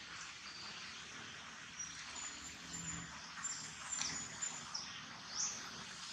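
Outdoor ambience of small birds chirping: short high chirps scattered over a steady hiss, with one louder rising chirp about five seconds in.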